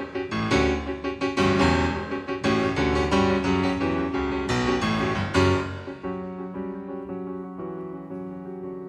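Background piano music: struck chords and notes, fuller for the first six seconds or so, then softer and quieter.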